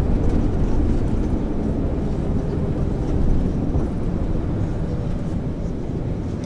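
A 1999 MAN ÜL 353 intercity bus's diesel engine running as the bus drives, a steady low rumble that eases off slightly toward the end.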